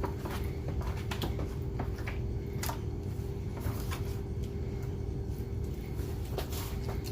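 Steady low kitchen hum with scattered light clicks and taps of food and a tray being handled.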